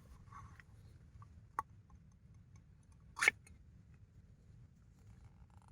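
A few light knocks and clicks of objects being handled, the loudest a single sharp knock about three seconds in, over a faint low rumble.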